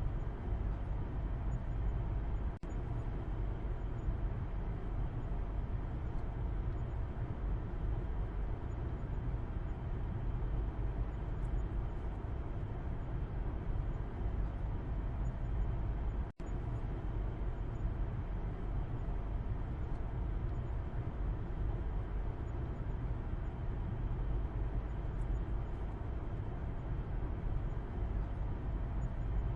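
Steady road and engine noise of a moving car heard from inside the cabin in the back seat: a constant low rumble with a hiss of tyres and air. It cuts out for an instant twice, once near the start and again about halfway through.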